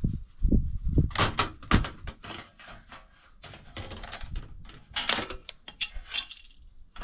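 A few knocks and thuds from a truck camper's hatch or cover being handled and opened, then a run of rustling, crackling scrapes.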